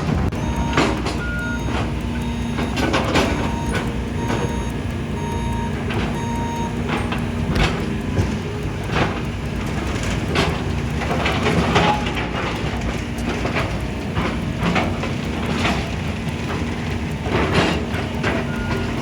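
Heavy demolition machinery running, with a backup alarm beeping steadily for the first several seconds. Repeated crunches and knocks of demolition debris being broken and moved come through at irregular intervals.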